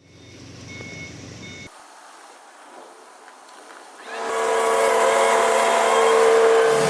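Machinery running, in abrupt cuts: first a moderate machine sound with short high beeps, then a quieter stretch, and from about four seconds in a loud machine noise with a steady hum.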